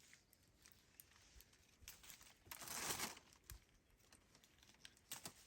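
Near silence broken by a faint crinkling rustle lasting about half a second midway through, followed by a few light clicks near the end.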